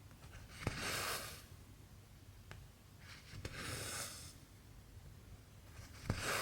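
Needle and cotton thread being drawn through cross-stitch fabric, three times about 2.7 seconds apart. Each stitch starts with a sharp tick and is followed by a hiss of thread lasting about half a second.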